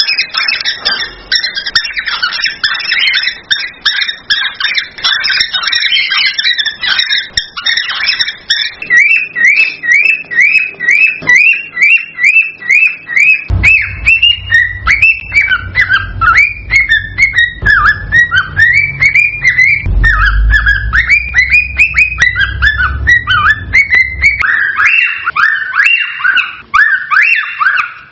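Cockatiel singing: fast runs of repeated chirping whistle notes, dense at first and then an even string of about three notes a second, with a low rumble underneath through the middle stretch.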